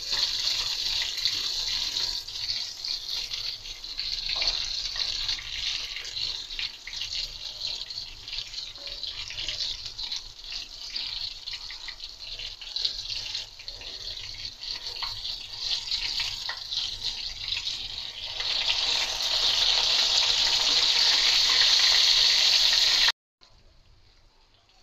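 Beef chapli kababs shallow-frying in hot oil: a steady, loud sizzle with fine crackling. It grows louder about three-quarters of the way through, then drops suddenly to a faint sizzle near the end.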